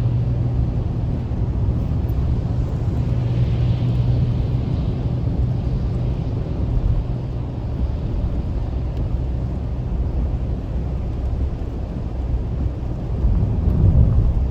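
Steady road noise inside a moving car: engine hum and tyre noise. A low hum is strong for the first few seconds and then eases, and the noise swells briefly near the end.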